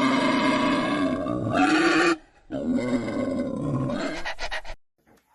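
A large animal's two long, harsh calls, each over two seconds, with a short break between them.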